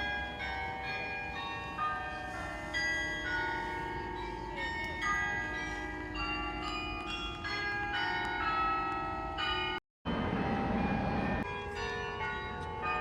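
Bells ringing: many overlapping bell tones at different pitches, struck one after another. The sound drops out briefly about ten seconds in, then carries on.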